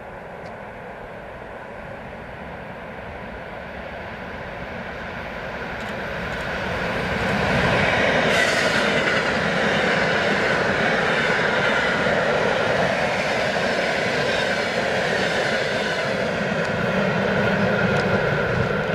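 EP2D electric multiple unit train approaching. Its rolling noise grows louder for about eight seconds, then stays loud and steady as it passes close by.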